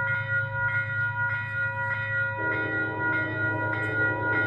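Grade-crossing bell ringing steadily, about two strikes a second. A little over two seconds in, an approaching train's horn starts sounding a chord of several tones and holds it.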